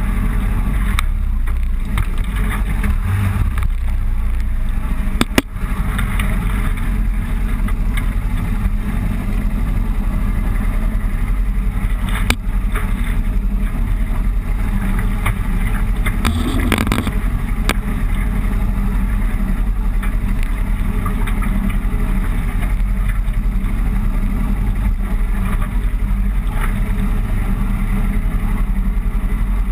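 Motorcycle running steadily along a road, its engine a constant low drone under wind rush on the microphone, with a few sharp clicks, the loudest about five seconds in.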